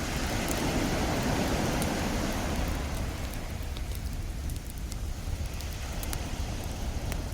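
Ocean wave surging in, swelling over the first couple of seconds and then drawing back, under the scattered crackles and pops of a beach campfire.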